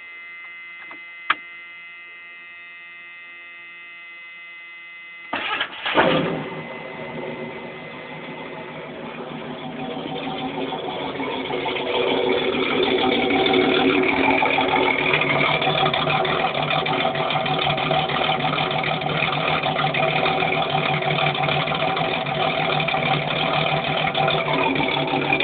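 A steady electronic tone, then the Jeep YJ's 4.7-litre stroker inline-six cranks about five seconds in and fires about a second later, then settles into an idle through an AeroTurbine 2525 muffler. The idle gets louder over the next several seconds and then runs steadily.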